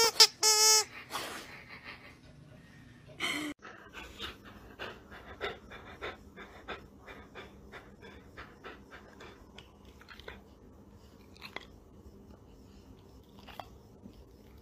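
A pet panting in quick, regular breaths, about two a second, with a short high call near the start.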